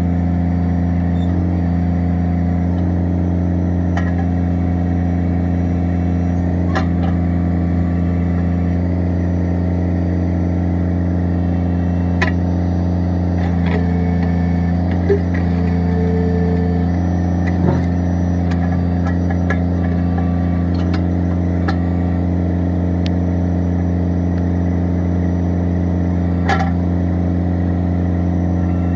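Kubota BX25 tractor's three-cylinder diesel engine running at a steady speed, with occasional sharp clanks or knocks from the machine.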